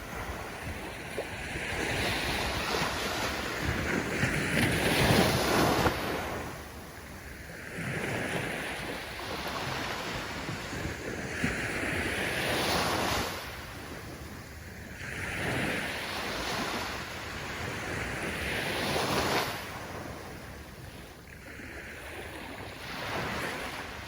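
Ocean waves breaking and washing up the shore, the surf swelling and falling away every few seconds, loudest about five seconds in.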